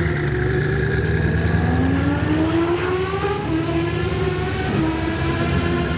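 Car engine running with a steady low drone, its pitch climbing in several rising sweeps as the revs build from about two seconds in.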